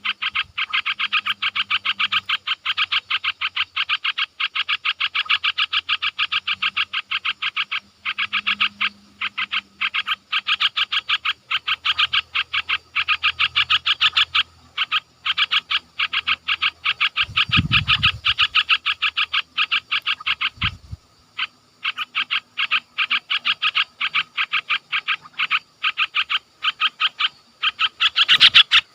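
A small animal calling over and over in a rapid, steady train of short chirping notes, several a second, broken by brief pauses. Two short low bumps come in the middle.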